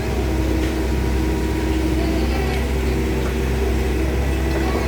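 Excavator's diesel engine running steadily as it digs deep river mud, a constant low drone.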